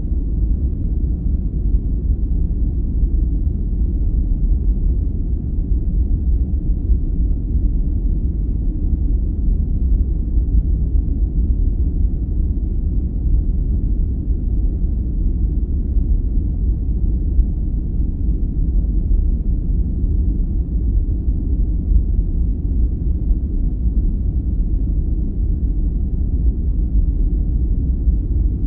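Steady, deep, muffled noise of a sleep-aid 'white noise' track, its energy heavy in the bass with almost no hiss, unchanging throughout.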